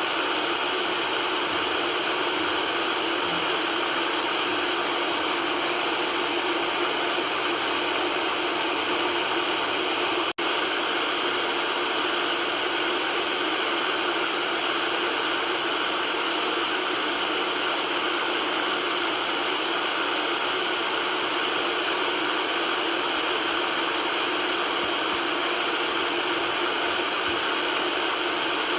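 Steady white noise, an even hiss with little bass. It drops out for a split second about ten seconds in.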